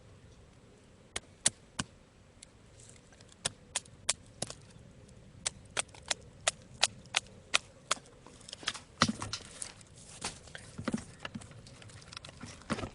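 Batoning firewood: a baton knocks on the spine of a knife to split the wood into thin sticks. The sharp knocks come in runs of about three a second, then give way to quieter, irregular knocks and rustling near the end.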